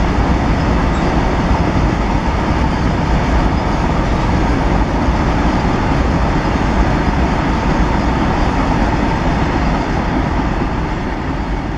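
Freight train of covered wagons rolling along the track: a steady rumble of wheels on rail that eases slightly near the end.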